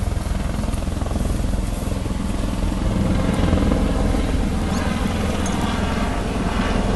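Police helicopter, its rotor chopping steadily.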